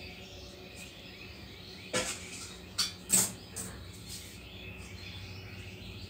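Birds giving short, sharp chirps, a cluster of them between about two and four seconds in, the loudest just after three seconds, over steady background noise.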